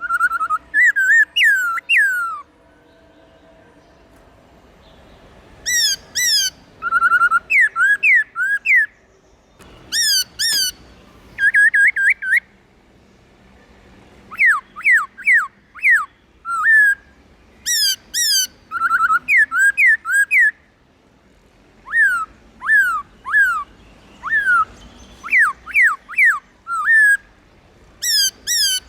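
Black-throated laughingthrush singing: loud, clear whistled phrases of quick rising and falling notes, delivered in bursts of a second or two with short pauses between them.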